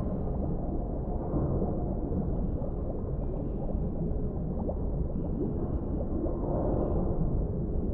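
Underwater deep-sea ambience: a steady low rumble with soft bubbling and gurgling, and faint high tones that come and go.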